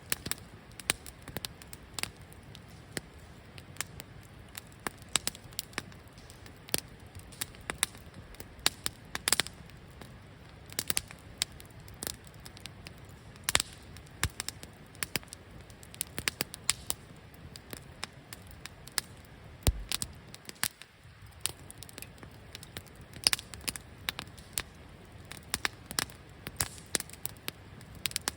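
Wood campfire burning in a fire pit, crackling with irregular sharp pops and snaps over a faint steady hiss. A single low thud about two-thirds of the way through.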